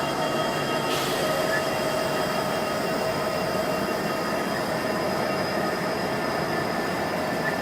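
Freight train rolling past, a steady rumble of wheels on rail with several sustained high ringing tones over it. There is a sharp click about a second in.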